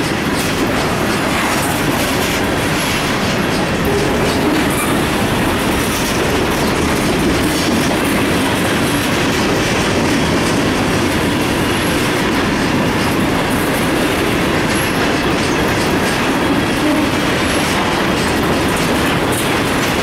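Freight train of covered hopper grain cars rolling past close by: the steady rumble and rattle of steel wheels clicking over the rail joints.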